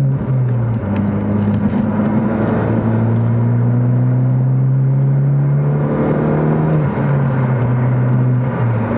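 2021 Honda Civic Type R's turbocharged 2.0-litre four-cylinder, fitted with an Invidia Gemini R400 cat-back exhaust, heard from inside the cabin under steady highway driving. The engine note climbs slowly, then drops in pitch about seven seconds in and again near the end.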